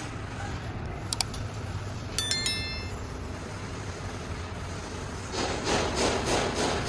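Workshop sounds over a steady low hum: a metal part clinks and rings briefly about two seconds in. About five seconds in, a rhythmic noisy working sound starts, at roughly four strokes a second.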